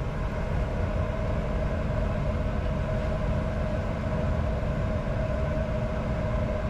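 Steady flight-deck noise of a Bombardier Challenger 605 business jet in descent: a continuous rush of airflow and jet engine hum, with a steady mid-pitched tone running through it.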